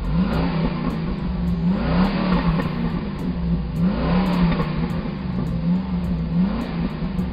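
Car engine sound effect running and revving over and over, its pitch climbing and dropping back every second or so. It cuts in suddenly.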